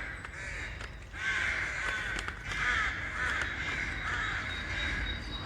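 Many birds calling at once in a continuous chatter, thickening about a second in, likely a flock of crows or their kin, over a low steady outdoor rumble.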